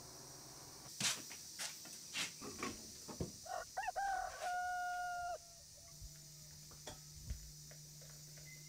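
A few sharp knocks, then a bird's call: one long call that rises at the start, holds steady for about a second and a half, and breaks off.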